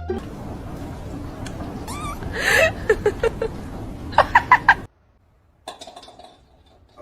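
A pet's high-pitched cries over a steady background noise: a wavering, gliding call about two seconds in, a few short cries after it, then a quick run of four short cries just before the sound cuts off suddenly.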